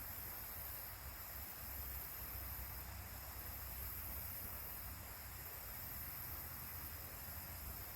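Steady rushing noise of a creek running high and fast after rain, with a low rumble underneath.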